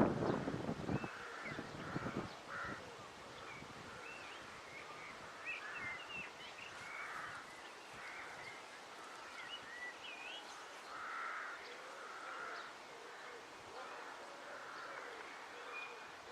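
A colony of crows cawing over and over, agitated and mobbing an intruder in their territory. A loud burst of noise comes in the first second.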